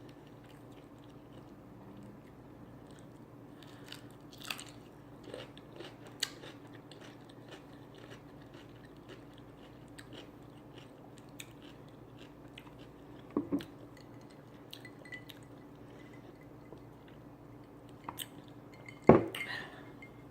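Close-up eating sounds: chewing with scattered short crunches and wet mouth clicks, a few louder crunches spaced several seconds apart, over a faint steady hum.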